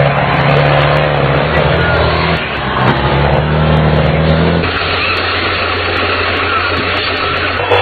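Tractor engines running under load and revving, their pitch shifting a few times.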